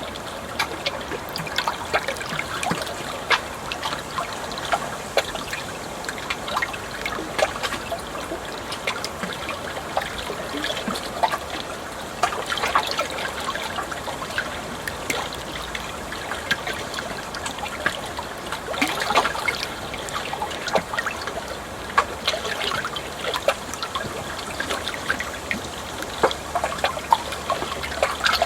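Water trickling and splashing steadily, with many small irregular splashes and drips over a constant wash.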